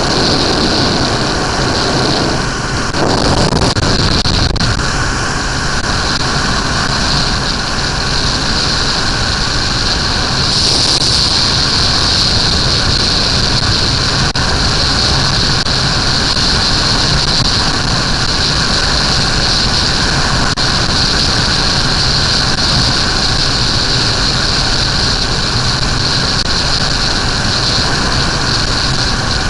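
Suzuki GSX-R 1100's inline-four engine running while riding, under a steady rush of wind noise on the microphone.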